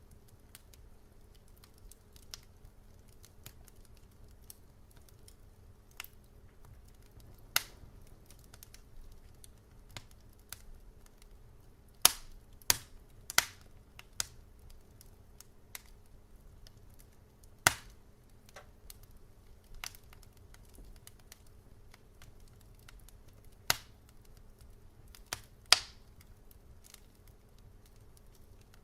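Wood fire crackling: sparse, irregular sharp pops and snaps over a faint low steady background, with a quick cluster of louder pops about twelve to thirteen seconds in and a few more near the end.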